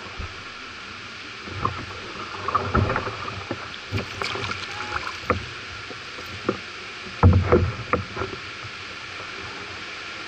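Canoe on moving river water: a steady wash of water with irregular splashes and knocks against the hull, the loudest cluster a little past the middle.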